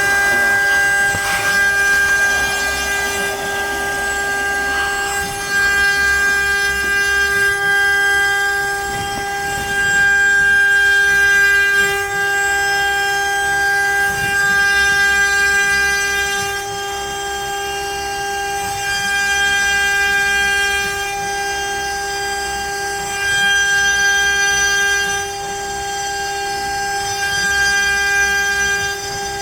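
CNC router spindle whining at a steady high pitch while its bit cuts letters into pine, the cutting noise swelling and easing every few seconds as the bit moves along the cuts.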